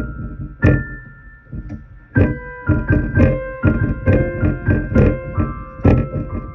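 Piano music played on an electric keyboard. A few scattered notes give way, about two seconds in, to a steady run of struck notes and chords, about two a second, with the tones held between them.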